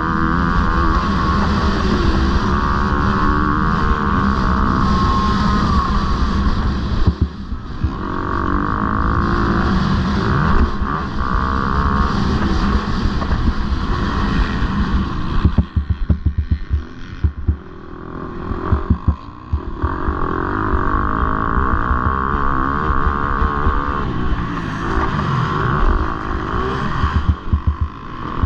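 MX2 motocross bike engines running hard and revving through the race. The throttle closes briefly about seven seconds in, and again for a few seconds past the middle, before the engines open up again.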